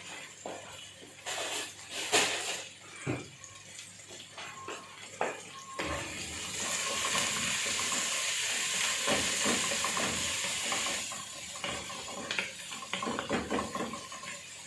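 Kitchen clatter of utensils, dishes and a pan, with onions frying in oil. A steady hiss comes in about six seconds in and eases off around eleven seconds, among scattered clicks and knocks.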